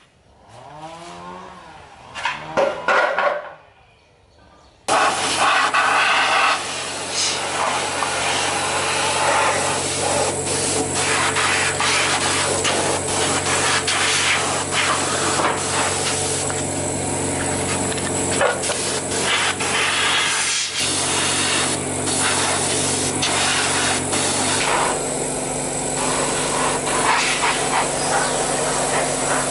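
A few seconds of sounds gliding in pitch, then about five seconds in an electric power tool starts abruptly. It runs steadily to the end with a hum and a loud rushing noise, typical of grinding or sanding.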